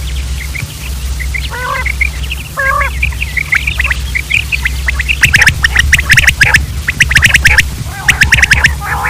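Quails calling: scattered short high chirps and a couple of lower harsh calls, then from about five seconds in repeated bursts of rapid, raspy chattering calls. A steady low hum runs underneath.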